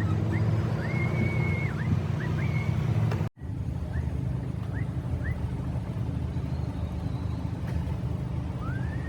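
Steady low road and engine rumble inside a moving car, with a brief dropout about three seconds in and a few faint high chirps over it.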